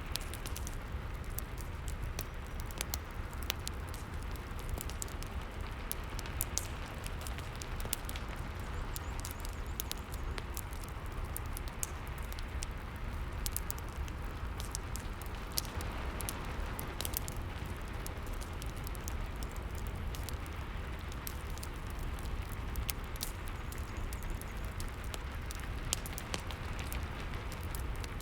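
A fireplace crackling with many irregular sharp pops over a steady rain ambience and a low rumble.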